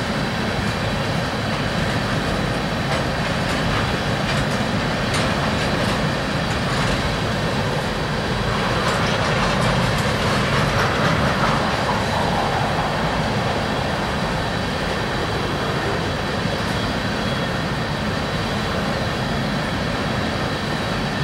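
Freight train of tank cars rolling past: steady wheel and rail noise with occasional sharp clicks, swelling slightly about nine to twelve seconds in.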